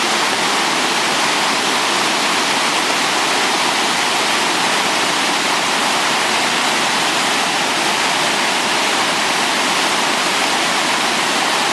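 Floodwater of the typhoon-swollen Kino River rushing, a loud, steady roar of water with no breaks.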